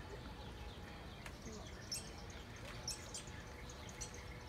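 Small birds chirping faintly, a scattering of short high calls, over quiet outdoor background noise.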